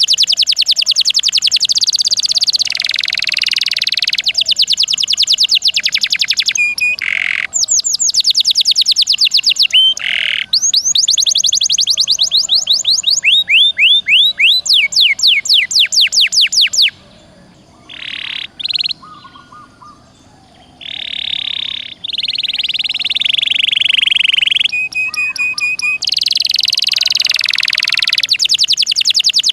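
Domestic canary singing hard, in long runs of very fast repeated high notes and rolling trills. The song drops to a few soft notes for a few seconds a little past the middle, then starts again.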